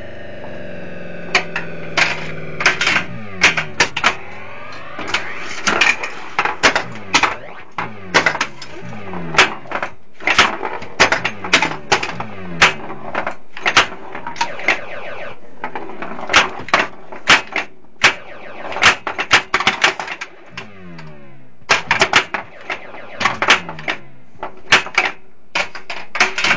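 Gottlieb Volcano pinball machine in play: a rapid, irregular run of sharp mechanical clicks and knocks from its flippers, bumpers and solenoids, over electronic sound effects that sweep down and up in pitch.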